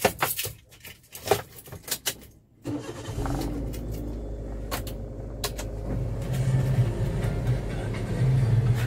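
Keys clicking and rattling at the car's ignition, then about two and a half seconds in the car's engine starts and settles into a steady idle, heard from inside the cabin.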